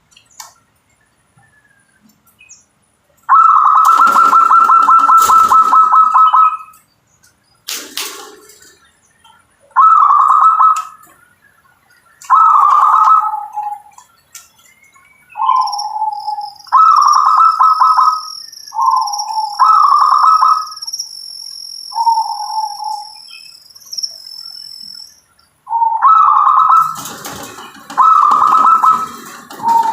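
Zebra dove (perkutut) cooing: a long rolling, pulsing coo about three seconds in, then a run of short coo phrases every second or two, several dropping to a lower note at the end.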